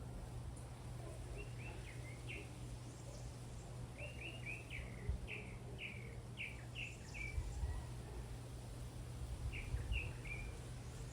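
A bird calling in quick runs of short, sharp chirps, three runs with pauses between, the longest about eight notes. A steady low hum continues underneath, with a few brief low thumps.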